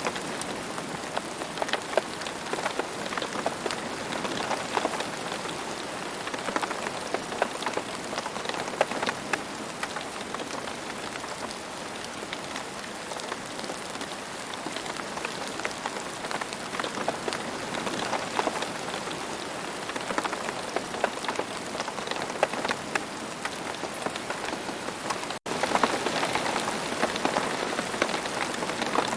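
Steady rain falling on the ground, a dense patter of many individual drops. It cuts out for an instant near the end, then carries on as before.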